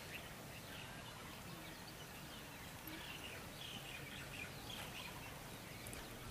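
Faint steady background noise with small birds chirping now and then.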